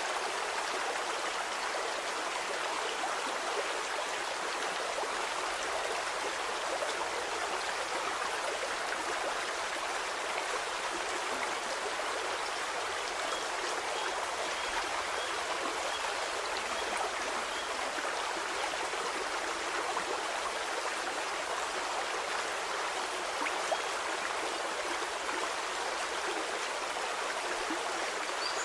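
Water of a small stream flowing steadily, an even, continuous babbling rush with little low rumble.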